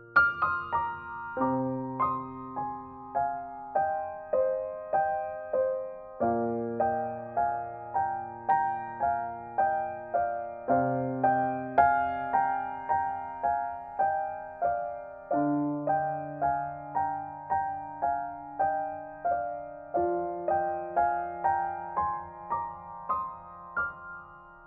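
Background piano music: a slow, gentle melody of evenly paced notes, about two a second, over low bass notes that change every four or five seconds.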